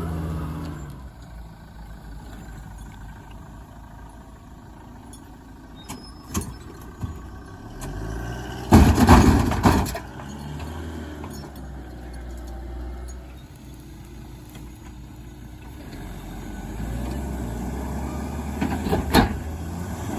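A motor vehicle's engine running steadily, with a loud rush of noise about nine seconds in and a short sharp burst near the end.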